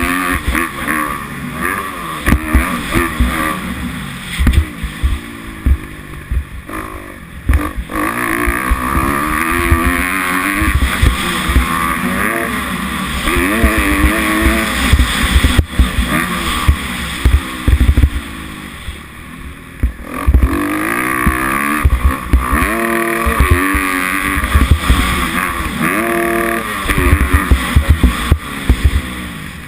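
Kawasaki KX250F single-cylinder four-stroke motocross engine revving up and down as the bike is ridden around the track, climbing through the gears in steps about two-thirds of the way in, with wind on the microphone and sharp thumps from bumps and landings.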